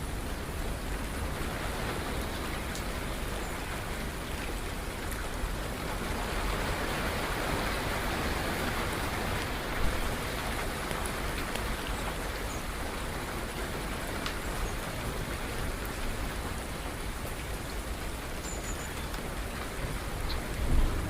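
Steady rain falling, growing a little louder midway, with a couple of brief sharp drips standing out.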